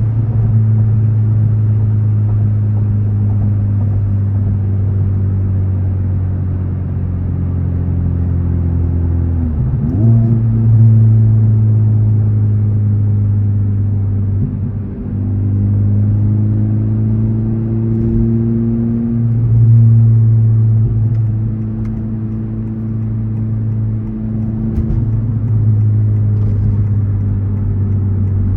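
Modified Honda Civic Type R FL5's turbocharged 2.0-litre four-cylinder running under way, a steady low drone whose pitch drifts up and down with engine speed. About ten seconds in, the engine speed briefly drops and climbs again.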